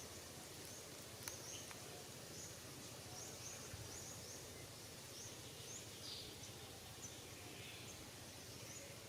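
Faint outdoor ambience with a bird's short, high chirps repeating about twice a second, over a steady hiss.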